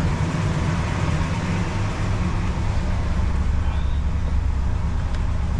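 1977 Ford LTD's V8 engine running steadily, a deep low drone, as it warms up to temperature.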